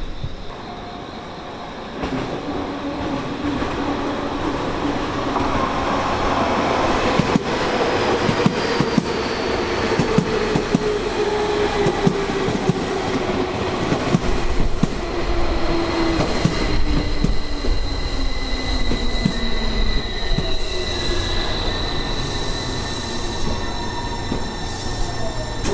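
Tobu Tojo Line electric commuter train running past, its wheels clacking over rail joints, with a motor whine that falls steadily in pitch from about six seconds in.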